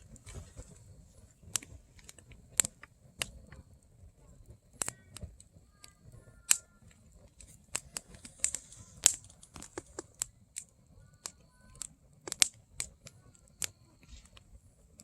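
Firewood burning, crackling with sharp, irregular pops, some single and some in quick clusters, over a faint low hiss.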